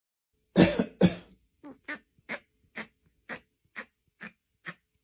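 Two loud coughs, then a run of about eight short, evenly spaced hacking coughs, roughly two a second.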